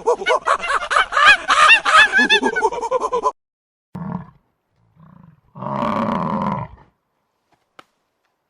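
Animal calls: a dense run of many overlapping rapid calls that stops abruptly about three seconds in, followed by a few short low calls and one longer call lasting about a second.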